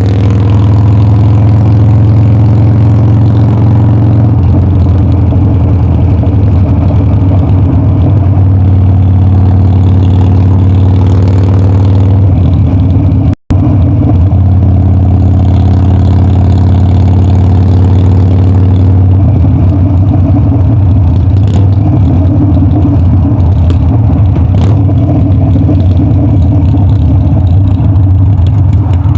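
Harley-Davidson Dyna's V-twin engine running loud and steady, its pitch shifting a few times as the throttle changes. The sound drops out for an instant about halfway through.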